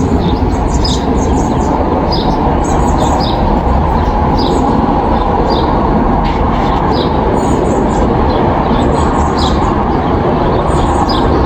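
Backyard songbirds chirping in many short calls over a loud, steady low rumble.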